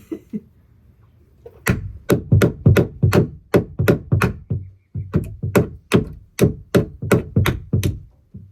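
Hammer driving a nail into a wooden perch board with rapid blows, about three a second and some twenty in all, pausing briefly about halfway through.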